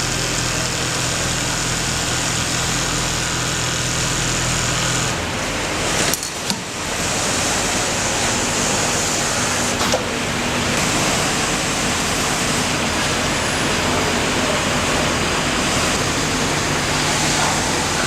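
Automatic pattern sewing machine running with a loud, steady mechanical noise. Its low hum changes about five seconds in, with a brief dip and a couple of clicks about a second later and another sharp click near ten seconds.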